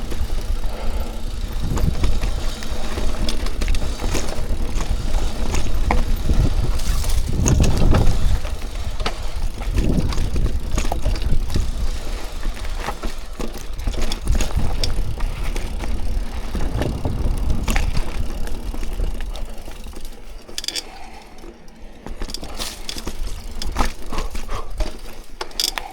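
Mountain bike rolling fast over dirt singletrack, with tyre noise, a heavy low rumble and a steady run of clicks and knocks from the bike rattling over roots and bumps. It eases off briefly near the end.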